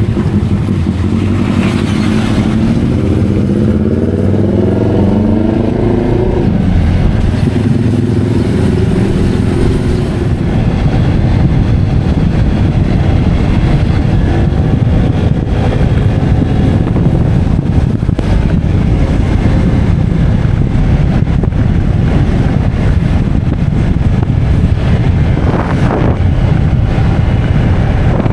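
Motorcycle engine running on the move, with wind noise on the microphone. Within the first several seconds the engine note climbs twice as it accelerates, then settles into a steady rumble.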